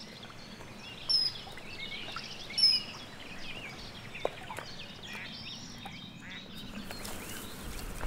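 Birdsong ambience: many small chirps and calls, with two short, high, falling whistled notes, the first about a second in and the second about two and a half seconds in.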